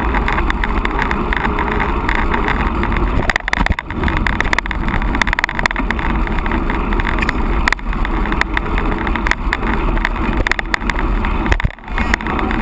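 Wind buffeting the microphone over a mountain bike riding a rough trail, with a dense run of rattles and knocks from the bike and the ground. There are brief lulls about four seconds in and near the end.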